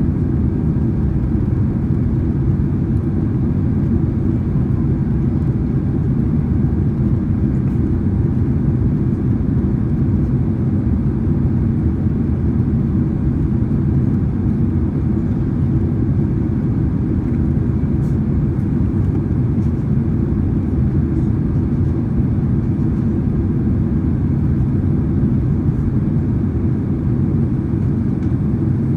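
Steady cabin noise inside a Boeing 767-300ER in flight: a constant low rumble of the jet engines and airflow, unchanging throughout.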